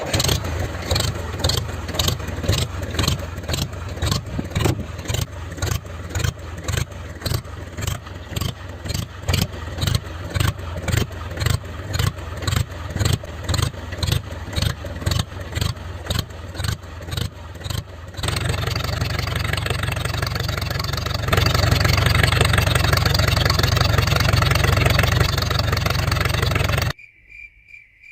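Homemade tractor's engine running with an even chugging pulse, about two or three beats a second. About 18 seconds in it revs up to a steady, louder drone, rises again a few seconds later, and cuts off abruptly near the end.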